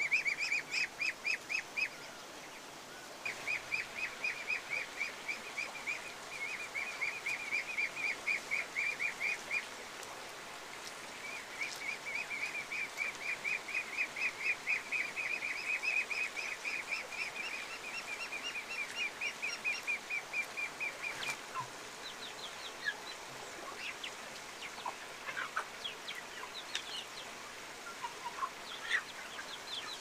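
A bird's long trills: quick runs of repeated high notes, each run several seconds long with short pauses between, giving way about two-thirds of the way in to scattered short chirps.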